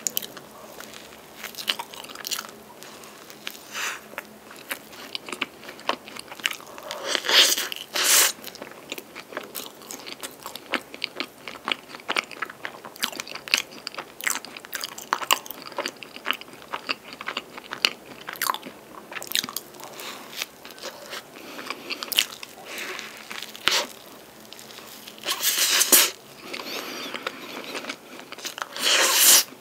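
Close-miked eating of a flaky pastry filled with mascarpone cream and strawberries: crisp crunching and chewing, with several louder bites.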